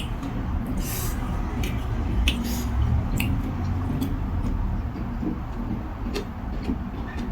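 Close-up eating noises from a bowl of beef noodle soup: chewing and slurping, with a few sharp clicks of utensils on the bowl, over a steady low rumble.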